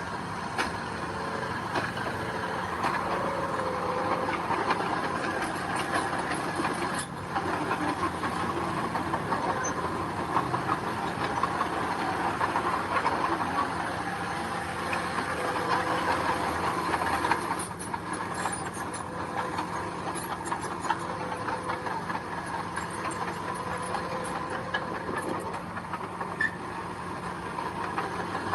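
Diesel engine of heavy earthmoving machinery running steadily, with constant metallic clatter and scraping over it.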